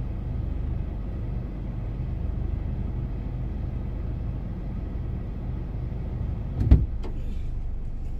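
Car engine idling steadily, heard from inside the cabin. Near the end, a single loud thump and a few faint clicks.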